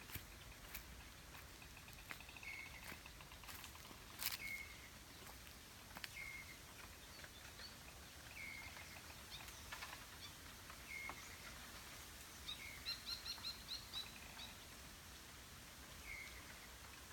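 Birds calling over quiet rural background noise: one bird repeats a short falling note every couple of seconds, and another gives a quick run of higher notes, several a second, about twelve seconds in. A single sharp click about four seconds in is the loudest sound.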